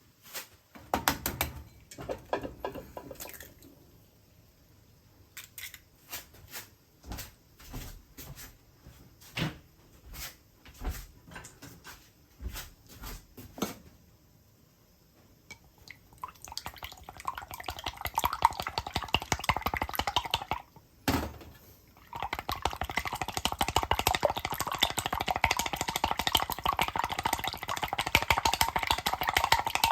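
Scattered knocks and clatters of kitchen utensils and dishes, then a dense crackling sizzle of food frying in a hot pan. The sizzle starts a little past halfway, breaks off briefly with a knock, and comes back louder.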